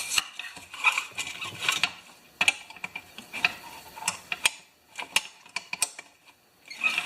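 Irregular clicks and clinks of a Honda HR214 mower's recoil starter pulley and spring being worked by hand, taking one wind out of the tension on an old spring, with a brief lull near the end.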